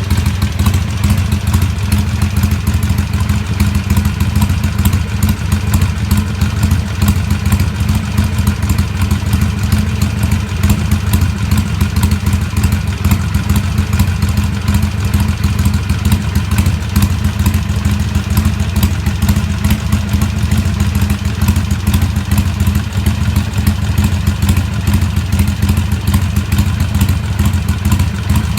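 Harley-Davidson Sportster XL883N's 883 cc air-cooled V-twin idling steadily through Cycle Shack 3-inch slash-down slip-on mufflers, a deep, loud, even exhaust note with no revving.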